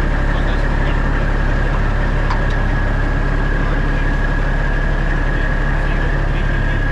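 Heavy diesel semi truck engine idling steadily, with a constant high whine over the low rumble.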